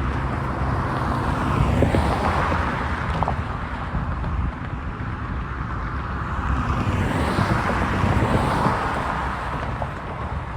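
Road traffic passing over a railroad crossing: vehicles go by with a steady rush of tyre and engine noise, one passing about two seconds in and another swelling near the end.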